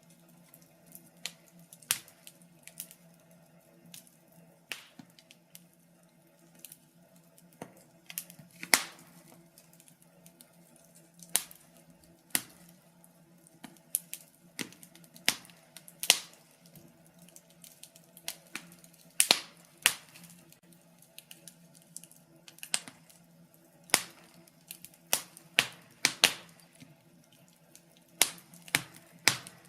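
Wood fire in a fireplace crackling, with irregular sharp pops and snaps of varying loudness, some clustered close together, over a faint steady hum.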